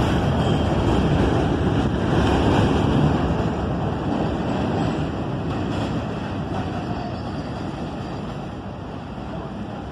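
New York City subway train running on the track, a broad rumble of wheels and motors that fades steadily over several seconds as the train moves away.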